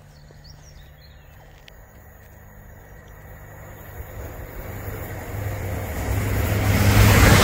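A train approaching, its noise growing steadily louder from about three seconds in until it is loud near the end.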